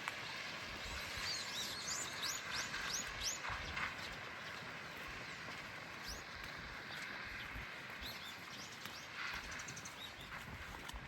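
Steady rain with a songbird calling over it: a quick run of about six repeated arcing notes in the first few seconds, then scattered chirps.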